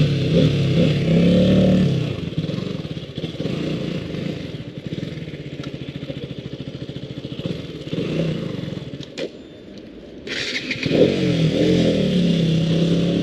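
Motorcycle engine under way: the revs climb in the first couple of seconds, settle lower and steadier through the middle, then climb again about ten seconds in, with a rush of wind noise.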